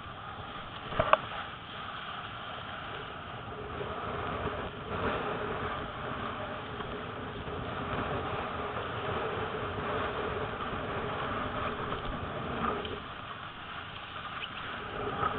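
Steady wind noise on the microphone mixed with rushing water, from windsurfing in strong, gusty wind, with a sharp knock about a second in.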